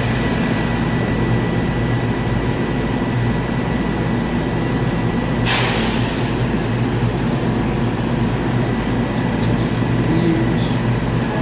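R68 subway train's steady hum and rumble, with a short burst of air hiss about halfway through.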